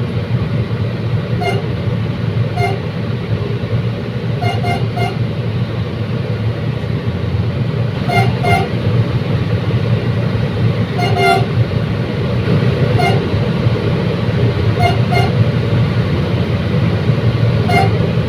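Commuter train running with a steady low rumble, overlaid by short horn toots, single or in quick pairs and threes, every one to three seconds.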